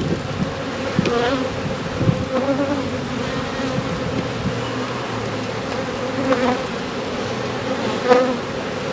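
Honeybee colony buzzing steadily from an open hive as a frame is lifted out: a continuous hum whose pitch wavers slightly, with a few faint knocks.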